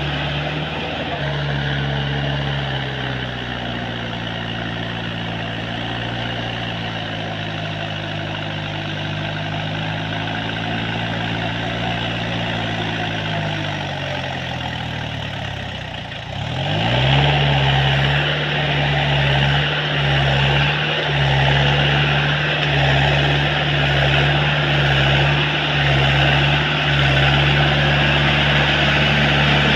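Tractor engine running, its pitch wavering and slowly sinking for the first half, then revved up sharply a little past halfway and held at a higher, louder speed.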